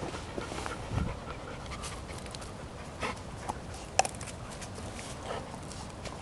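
Airedale terrier panting, with scattered short rustles and clicks, a low thump about a second in and a sharp click about four seconds in.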